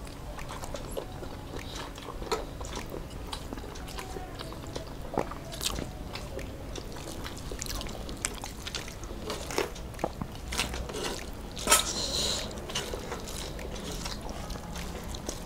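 Close-miked eating sounds: chewing and mouth noises as rice and curry are eaten by hand, with scattered wet smacks and small clicks. The loudest smack comes about twelve seconds in.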